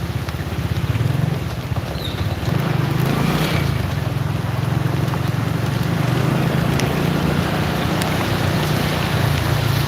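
Steady low rumble of wind buffeting the microphone on a moving motorcycle, with engine and road noise underneath, riding through heavy rain.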